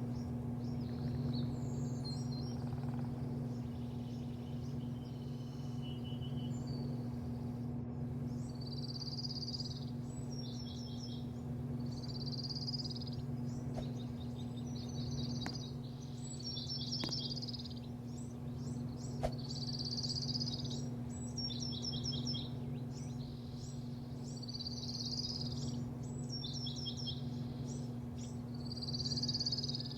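A songbird singing short repeated phrases, each a quick run of high notes, about every two seconds from roughly eight seconds in, over a steady low mechanical hum.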